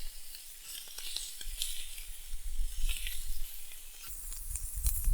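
Chicken, bacon and sausages sizzling on a hot Biji cooking plate over a campfire, with many small pops and crackles. Wind rumbles on the microphone and grows louder near the end.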